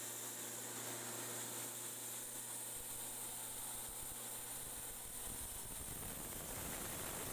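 Steady mechanical hiss and hum of a running machine, with a low rumble coming in about three seconds in.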